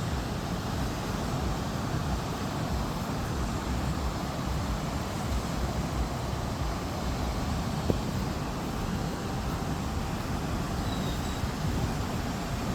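Wind rumbling on the microphone over the steady rush of ocean surf on a beach, with one sharp click about eight seconds in.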